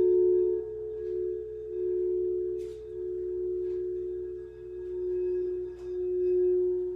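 Quartz crystal singing bowls ringing in two close, sustained low tones, the sound swelling and fading in slow waves.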